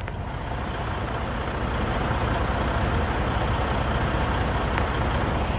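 Semi truck's diesel engine running with road noise, a steady low drone that grows slightly louder over the first couple of seconds.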